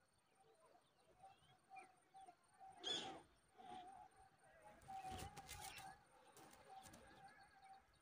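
Mostly quiet, with a faint steady whine throughout. A single short bird call sounds about three seconds in, and from about five seconds scattered rustles and taps come from the twigs of the stick nest as the black-winged kite shifts on it.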